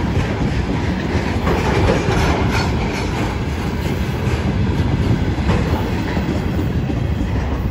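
Railway tank cars of a freight train rolling past close by: a steady rumble with wheels clattering irregularly over the rail joints.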